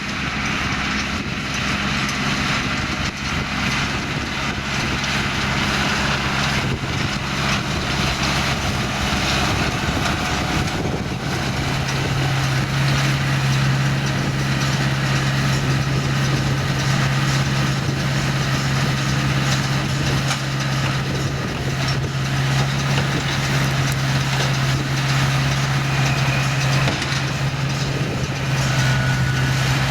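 Massey Ferguson tractor's diesel engine running steadily as it drives a McHale baler. Its hum grows stronger about a third of the way in.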